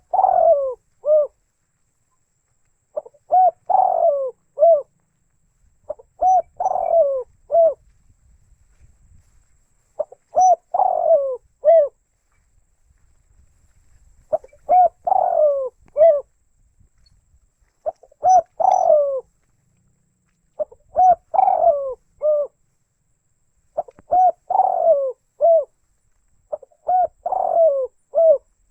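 Spotted dove (tekukur) cooing: a short multi-note coo phrase repeated about every three seconds, each phrase with a longer falling note in the middle.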